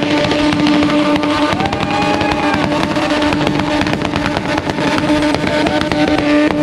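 Rotary-engined mini truck doing a burnout, its engine held at high, steady revs with a loud, constant note and rapid crackling pops from the exhaust.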